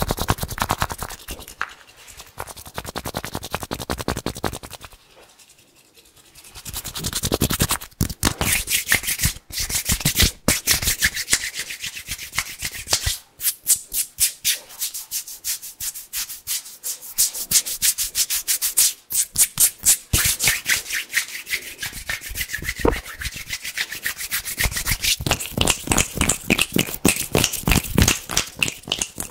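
Hands rubbing together fast and hard, a crisp, rapid swishing that goes quieter for a moment about five seconds in and then picks up again.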